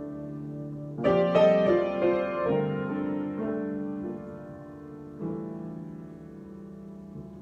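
Solo piano improvising: a held chord, then a louder group of notes struck about a second in that rings and fades, and another chord struck a little after the five-second mark, left to ring out.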